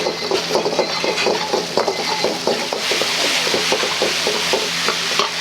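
Food being stir-fried in a wok, with the ladle stirring and scraping in rhythmic strokes about four a second. The frying sizzle grows louder in the second half.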